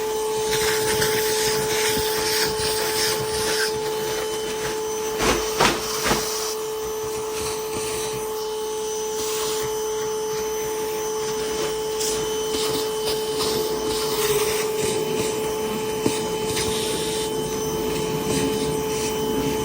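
Bee vacuum motor running with a steady hum, with rubbing and scraping and a few knocks about five to six seconds in.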